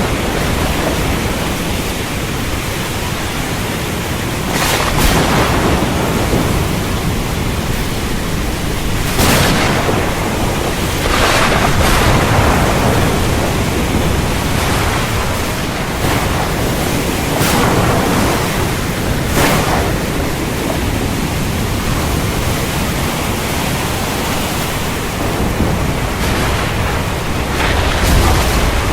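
Steady heavy rain with low thunder rumbling underneath. Several brief sharp surges cut through the downpour at intervals.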